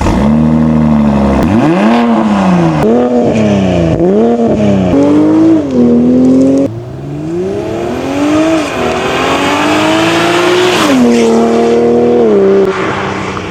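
BMW 540i's 3.0-litre turbocharged B58 inline-six through an aftermarket catback exhaust with a 3-inch single midpipe, revved up and down several times in quick succession. After a sudden cut, the engine pulls with its pitch rising for a few seconds, then drops back and runs steadily.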